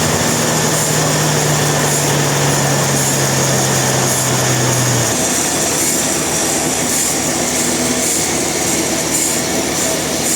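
Industrial sawmill machinery running: a loud, steady mechanical din with a low motor hum that sinks slightly in pitch and cuts off about five seconds in.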